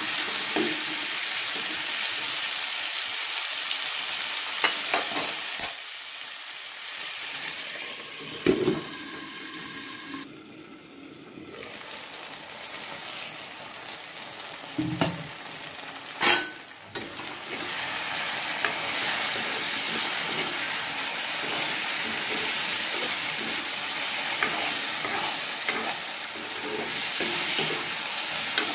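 Chopped vegetables sizzling on high flame in a kadhai, stirred with a metal spatula that scrapes and knocks against the pan. The sizzle drops quieter around a third of the way in, with a few sharp knocks, and comes back stronger for the last third.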